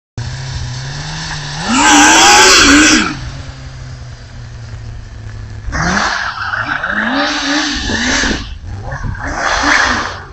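Motorcycle engine in a go-kart idling, then revved hard in bursts: one long rev about two seconds in, a run of revs a few seconds later, and another near the end.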